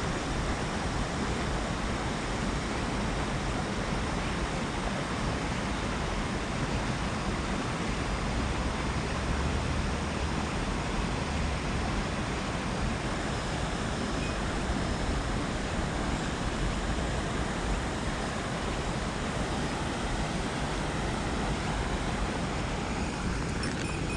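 Steady rushing of water, an even unbroken noise with no change in level.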